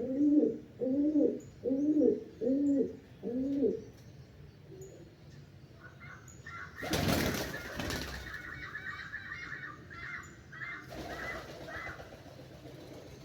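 A dove cooing in a quick run of about six low coos, a little under two a second, that stops about three and a half seconds in. Then a small bird chirps a fast series of higher notes for several seconds, with a short burst of rushing noise about seven seconds in.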